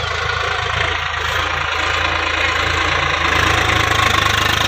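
Swaraj 735 XT tractor's three-cylinder diesel engine running steadily while pulling a cultivator through the field, growing a little louder about three seconds in.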